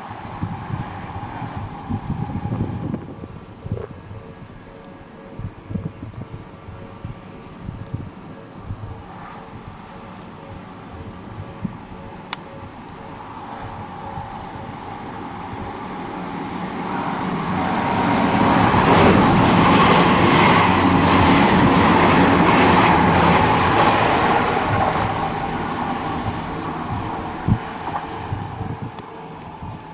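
Odakyu 30000-series EXEα electric express train passing through the station without stopping. Its rumble and rail noise build up over several seconds, peak for several seconds in the later part, then fade away.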